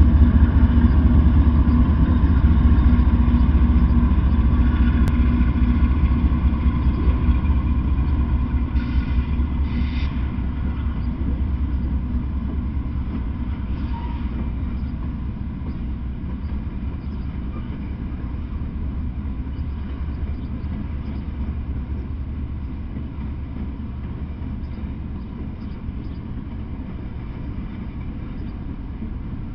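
Norfolk Southern diesel-hauled freight train passing. A loud engine drone is strongest at the start and fades over the first ten seconds or so, then gives way to the steady rumble of hopper cars rolling by, slowly getting quieter.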